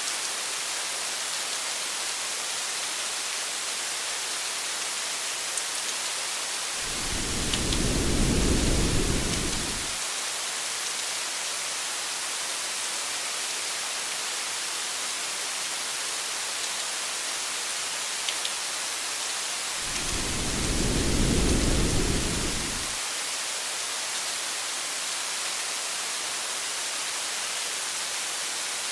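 Steady rain hiss, with two low rolls of thunder, the first about seven seconds in and the second about twenty seconds in, each lasting around three seconds.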